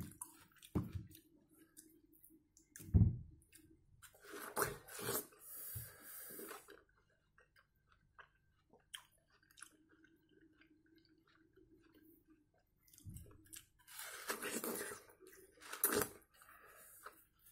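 A person biting into and chewing fresh watermelon, in a few short spells with a quiet stretch in the middle.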